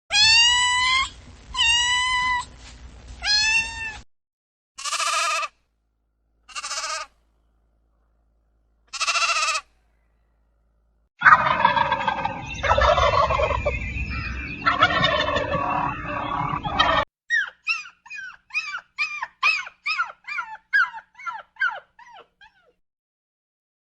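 A sequence of different animal and bird calls, edited one after another. First a few arched, repeated calls, then three short calls, then several seconds of dense, gobbling-like fowl calls, and finally a quick run of short chirps that fades away.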